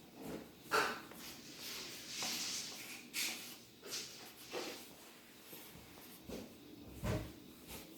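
Board game being played by hand: irregular small clicks, knocks and rustles of pieces and cards being handled, with a heavier thump about seven seconds in.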